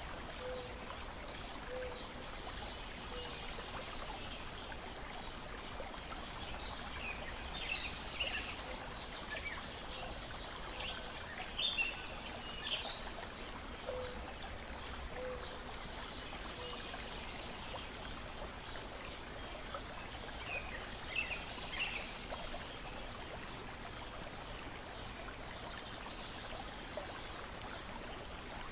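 Steady splashing and lapping of lake water against a shore and deck, with songbirds chirping in scattered bursts, busiest in the middle stretch and briefly again later on.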